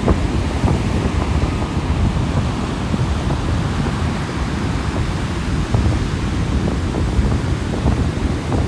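Sea waves washing onto a beach, a steady deep rush, with wind rumbling on the microphone.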